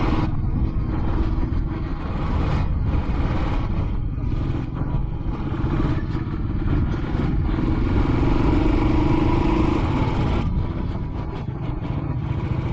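Royal Enfield Classic 500 single-cylinder engine running steadily, with a low drone that swells briefly about two-thirds of the way in.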